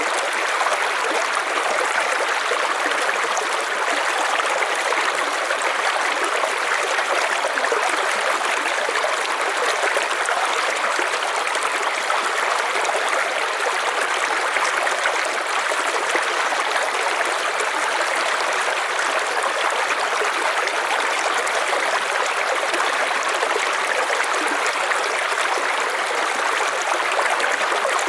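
River water flowing and splashing in a steady, unbroken rush, strongest in the middle range with little low rumble.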